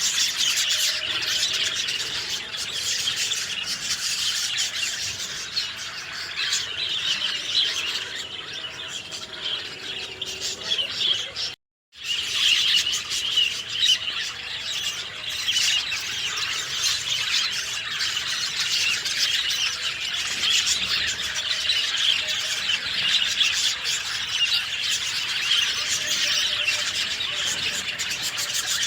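Many small birds chirping and calling at once in a dense, continuous chorus of high, quick notes. The sound cuts out for a moment about twelve seconds in, then picks up again.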